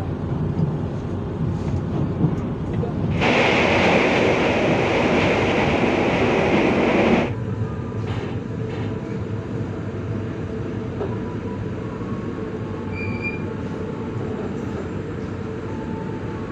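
Passenger train running at speed, heard from inside the coach: a steady rumble of wheels on the track. About three seconds in, a loud rushing hiss joins for about four seconds and cuts off suddenly.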